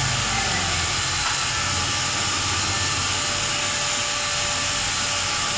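Steady, loud hiss with a faint low hum beneath it.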